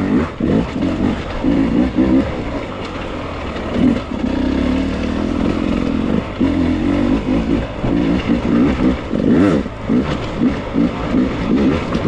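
Beta dirt bike engine in short, uneven throttle bursts, the revs rising and falling again and again as the bike picks its way slowly over rocky, trackless ground.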